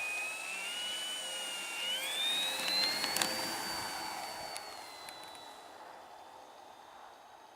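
Electric motor and propeller of an FMS Focke-Wulf FW 190 RC model airplane whining, its pitch climbing over about three seconds, then holding and fading away.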